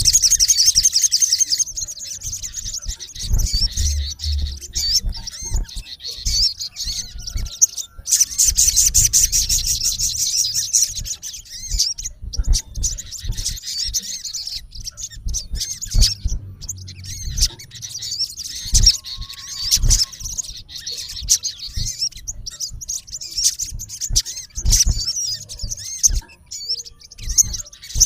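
Male olive-backed sunbird calling a rival: rapid, high-pitched chirps and trills in loud bursts, with softer chirping between them.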